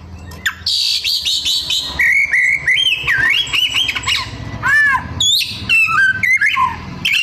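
Oriental magpie-robin (kacer) singing a loud, varied song full of mimicked phrases: a rapid trill, gliding whistles, and a run of quick arched notes that rise and fall in pitch.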